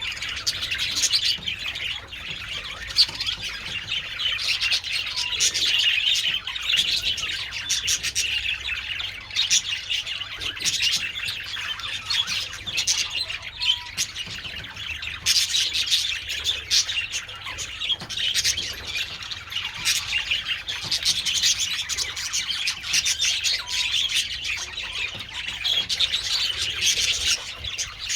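A colony of budgerigars chattering together: a dense, continuous mix of warbling chirps and squawks.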